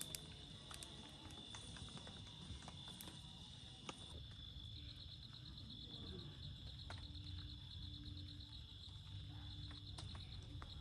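Faint, steady high-pitched insect trill, likely a cricket, breaking for a couple of seconds midway into a fast, even pulsing chirp. Scattered light ticks sound throughout.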